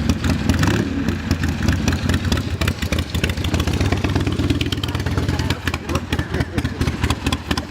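Chopper motorcycle engine running near idle with a rapid, uneven firing pulse, with people talking nearby.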